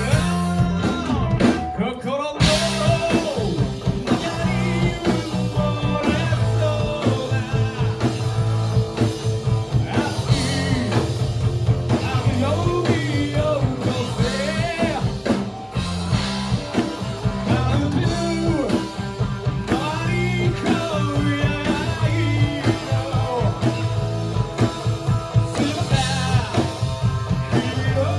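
Live rock band playing, with a singer's vocals over guitar, bass and drums. There is a short break about two seconds in before the band comes back in.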